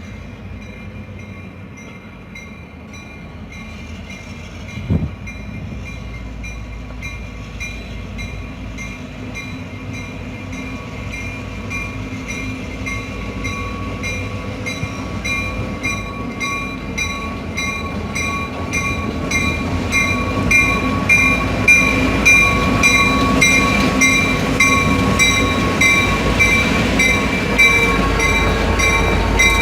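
GEXR freight train approaching, growing steadily louder, with a steady high metallic ringing and a regular rapid ticking that strengthen as it nears. A single sharp thump about five seconds in.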